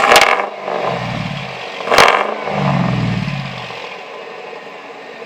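2007 Chevy 2500's 6.0-litre V8 through a new Flowmaster FX muffler, revved twice about two seconds apart. Each rev starts sharply and falls back to idle.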